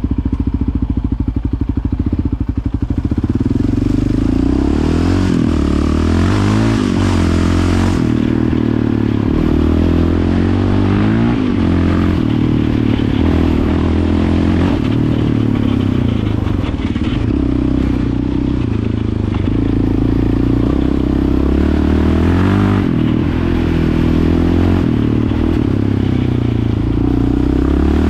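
Yamaha Raptor 700's single-cylinder four-stroke engine running through a Yoshimura aftermarket exhaust while being ridden at break-in. The engine note rises and drops again and again as it goes through the gears, after a few seconds of a steadier, slower pulse at the start.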